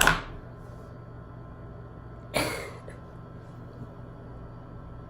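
Quiet room tone with a steady low hum, broken by one short, sharp noise about two and a half seconds in.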